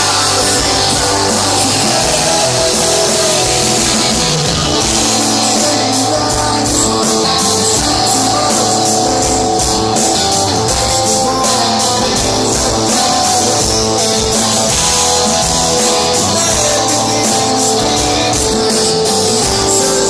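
Live rock band playing, led by strummed guitar with a drum kit, at a steady full level.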